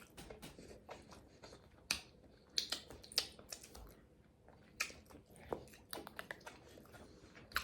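Close-up chewing of crunchy asparagus: scattered crisp crunches and wet mouth clicks, irregular and fairly faint.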